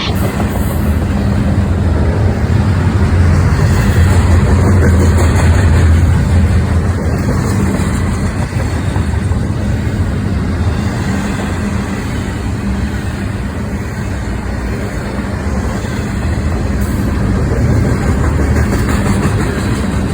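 Passing train: a continuous rumble with a steady low drone, loudest a few seconds in, easing off in the middle and swelling again near the end.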